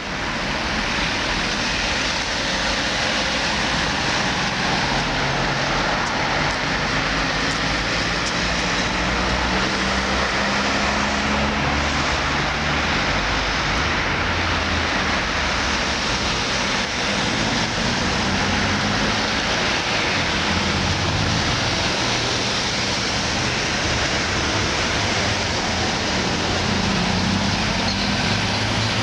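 Road traffic around a roundabout: car engines running, with the engine pitch shifting as vehicles speed up and slow down, over a steady wash of tyre and road noise.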